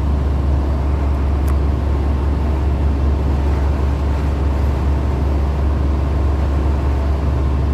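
Bus engine running with a steady low hum, heard from inside the passenger cabin.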